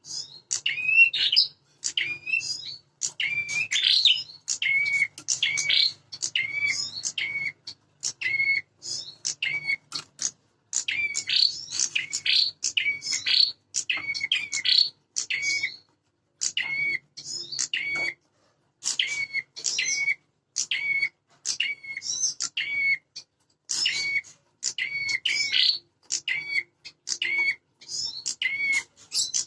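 Prenjak songbirds giving territorial fighting calls: short sharp chirping notes repeated rapidly, about two a second, as two birds call against each other with only brief pauses.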